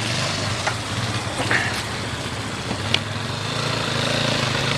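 Dirt bike engine running steadily at idle, a low even hum, with a few light knocks over a constant hiss.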